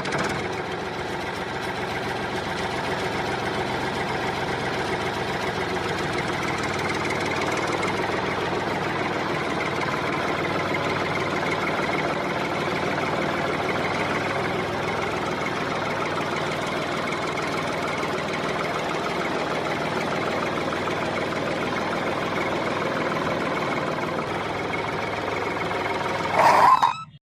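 Steady running of a small engine or motor at a constant speed. A short, louder sound comes just before it cuts off abruptly at the end.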